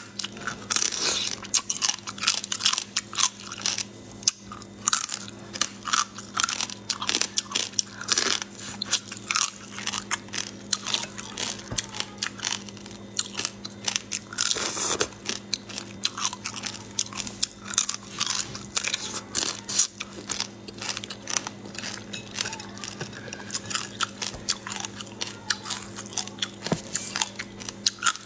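Close-miked biting and chewing of shell-on shrimp: dense, irregular crunching and crackling of the shells being bitten through.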